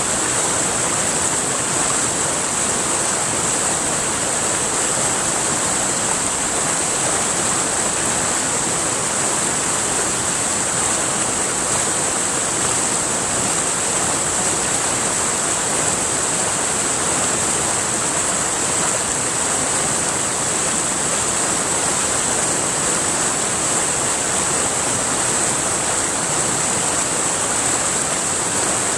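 River water rushing steadily, an even unbroken rush, with a steady high-pitched hiss above it.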